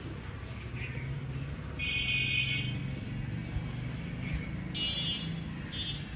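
Birds calling outdoors: a buzzy, rasping call about two seconds in, another shortly after the five-second mark and a brief one near the end, with a few short chirps between, over a low steady hum.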